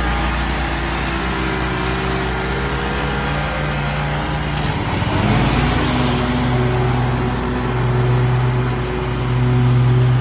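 An engine running steadily, its pitch dropping and then settling at a new steady note about five seconds in.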